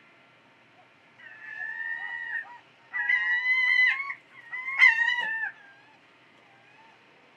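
A bird calling three times: long, high, wavering cries, each dropping in pitch at its end, the last one the loudest.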